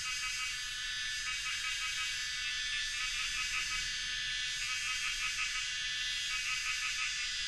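A dense chorus of calling insects: a steady high buzz layered with rows of fast, evenly pulsing notes.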